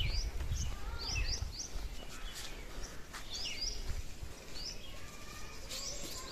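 Small birds chirping repeatedly in short, quick chirps, over a low rumble that fades after the first second or so.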